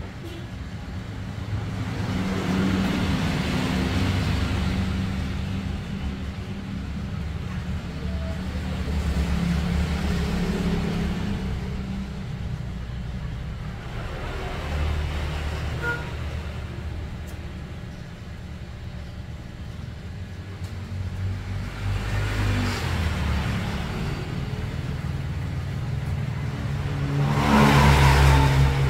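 Small CNC router at work milling a circuit board, with its motors running. The low hum shifts pitch in steps as the moves change, and the cutting noise swells louder several times, most strongly near the end.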